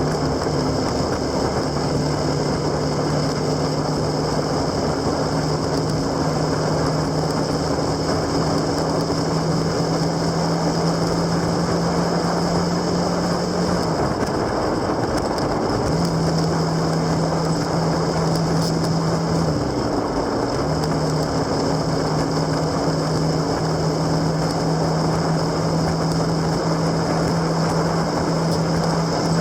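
Motorcycle engine running steadily under way, with a constant engine note over heavy wind rush. The note drops out briefly about halfway through and again a few seconds later, the second time dipping and climbing back.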